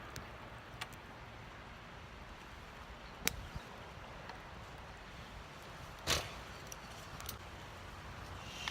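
A few sharp clicks and knocks over a low steady background: the sharpest about three seconds in, and a longer, rougher one about six seconds in.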